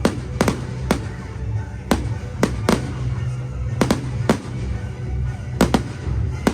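Fireworks display: a dozen or so sharp bangs of exploding shells at irregular intervals, with music playing underneath.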